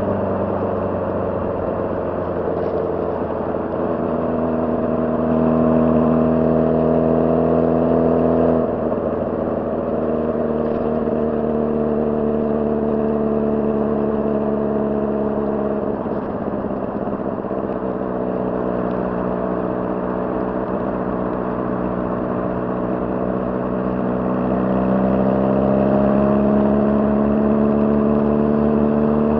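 2006 Honda CBR600RR's inline-four engine running at steady revs. The engine note drops about nine seconds in and again around sixteen seconds, then rises slowly near the end.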